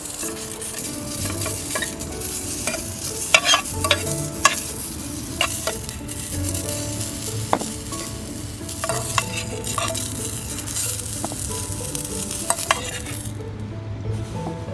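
Food sizzling in a frying pan over a campfire, with scattered sharp clicks and taps. The sizzle cuts off suddenly near the end.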